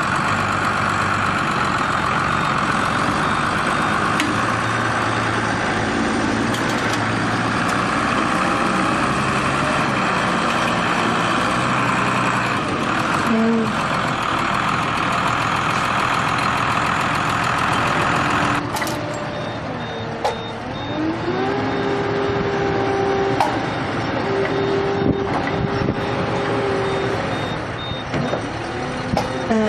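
Heavy vehicle engines running under load. About two-thirds of the way in the sound cuts abruptly to another engine that revs up and holds its pitch, with faint short high beeps.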